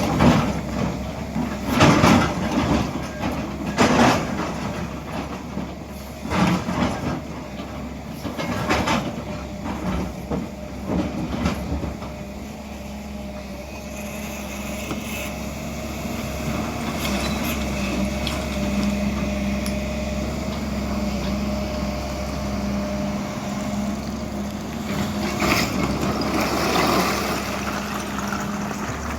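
Hydraulic excavator at work digging a well. A series of loud knocks and clanks comes over its running engine through the first half. Then the engine runs steadily, rising briefly near the end.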